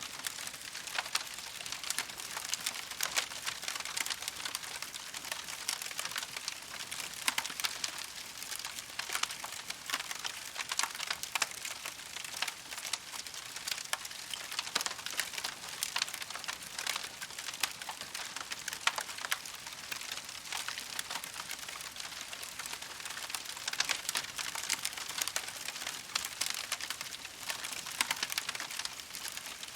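Campfire crackling steadily: a dense run of small irregular snaps and pops over a soft hiss, with an occasional louder crack.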